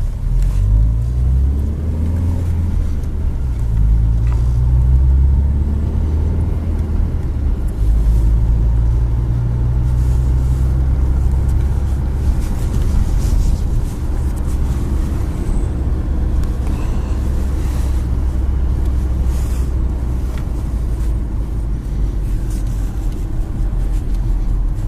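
Engine and road rumble inside a moving car. The engine note rises several times in the first half as the car accelerates, then settles into a steady drone.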